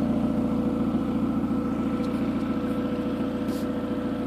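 1994 Saturn SL2's four-cylinder engine idling steadily through its newly replaced exhaust and muffler, which still has a small leak toward the back awaiting one more clamp.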